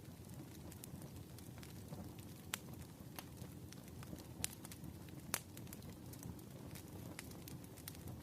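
Fire crackling, with sharp irregular pops over a low steady rumble; three pops stand out, about two and a half, four and a half and five and a half seconds in.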